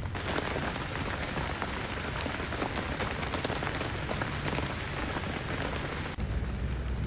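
Heavy rain falling on a surface, a dense steady hiss full of single drop hits. About six seconds in it changes abruptly to a duller, lower sound.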